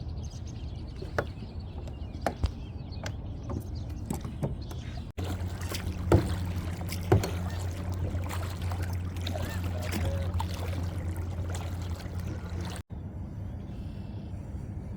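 Kayak on the water: scattered knocks and clicks against the hull and gear. A steady low hum comes in after a sudden cut about five seconds in and stops at a second cut near the end.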